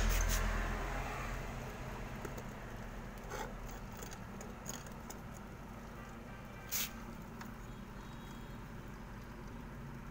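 Steady low electric hum of a running refrigerator compressor, with a louder motor sound dying away in the first second or so. A few light clicks and taps, the sharpest a little before the middle.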